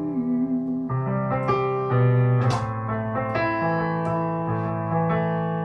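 Piano playing a slow sequence of sustained chords, a new chord struck about every second.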